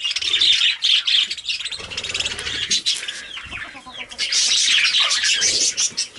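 Pet budgerigars chattering and warbling, a dense run of rapid high chirps and squawks that grows louder about four seconds in.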